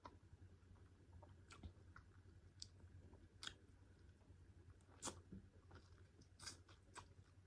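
A person chewing pork curry and rice, faintly, with a handful of short sharp mouth clicks spread through.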